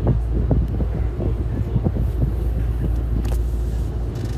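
Wind buffeting the microphone over a steady low rumble, with scattered light knocks and crackles.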